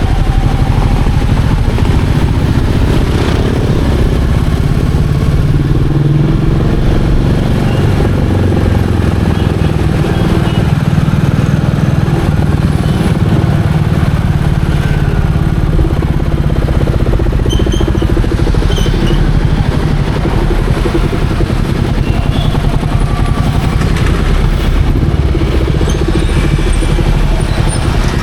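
Royal Enfield Meteor 350's single-cylinder engine running steadily as the motorcycle is ridden, its note shifting with the throttle, over road and wind noise.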